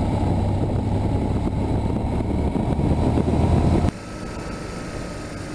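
BMW R1200 GSA boxer-twin motorcycle riding along, steady engine note under loud wind rush on the helmet microphone; about four seconds in it cuts off abruptly to a much quieter steady hum.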